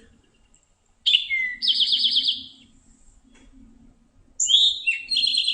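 Eastern towhee singing its harsh "drink-your-tea" song twice: each phrase has two short opening notes followed by a rapid trill.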